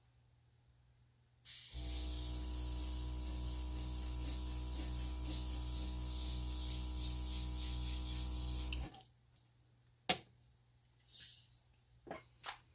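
Small airbrush compressor running with air hissing out of the airbrush, blowing alcohol ink across the paper: a steady motor hum with a soft regular pulse under the hiss. It starts about a second and a half in, runs for about seven seconds and cuts off suddenly, followed by a few faint clicks.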